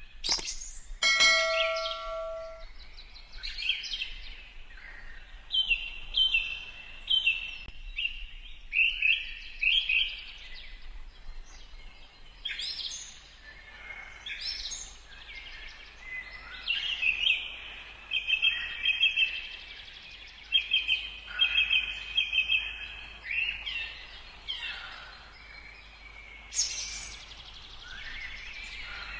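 Forest birds calling throughout: many short repeated chirps and whistled notes, with longer trilled runs in the second half. A brief bell-like chime rings about a second in.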